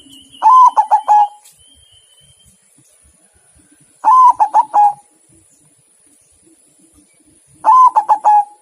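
Zebra dove (perkutut) cooing: three song phrases a few seconds apart, each a quick run of four or five rolling coo notes.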